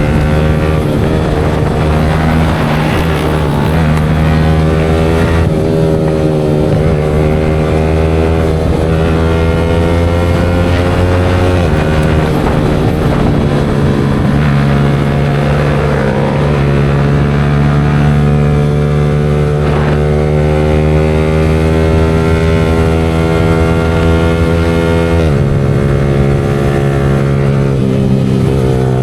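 Yamaha R15 V4's single-cylinder motorcycle engine running continuously, its pitch slowly rising and falling, with sudden changes in pitch about twelve seconds in and again near the end.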